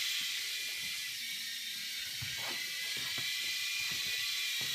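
Small toy RC helicopter's electric motor and rotors running with a steady high-pitched whine, its pitch wavering slightly.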